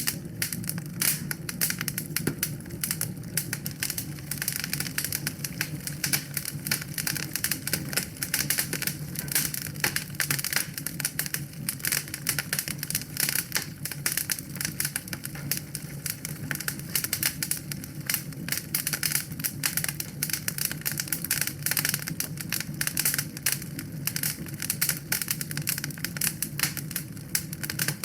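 Wood fire crackling steadily in a fireplace: dense, irregular snaps and pops over a low, steady rumble of the flames.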